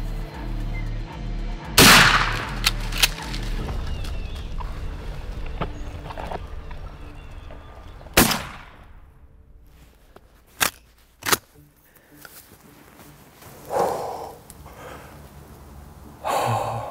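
Single loud shotgun shot at a turkey about two seconds in, with a short echo. It comes over background music with a low, steady beat that stops about a second later. Further apart, a few fainter sharp knocks and thuds follow.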